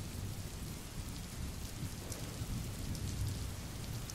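Steady rain falling, an even hiss with fine drop ticks over a low rumble.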